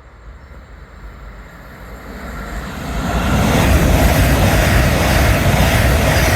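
A train approaching and passing close by, its noise building over the first three seconds or so into a loud, steady rush.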